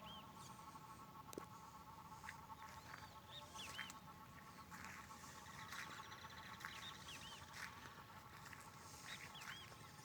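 Faint chorus of frogs calling: a steady, pulsing drone of many callers, with repeated short, arched chirps on top and a few scattered clicks.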